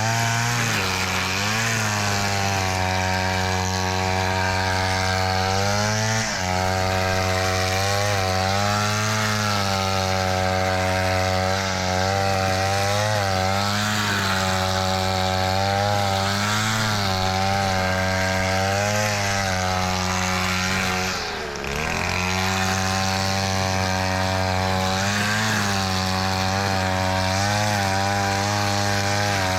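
Small petrol engine of a grass-cutting machine running continuously at high speed, its pitch dipping and recovering every second or two as it takes load, with one brief drop about two-thirds of the way through.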